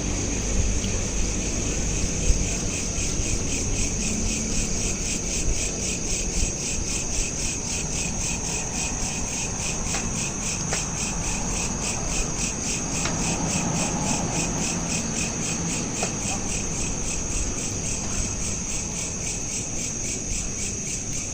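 Crickets chirping without a break: a steady high-pitched trill of rapid, even pulses, over a low background rumble.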